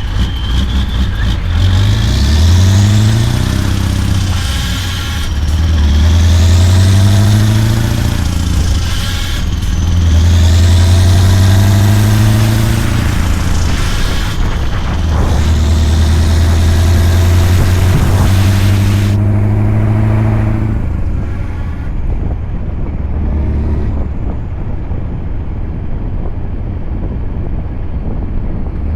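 Scania V8 truck engine pulling up through the gears: the revs climb and drop back at each shift about four times, then it settles into a steadier run over the last third.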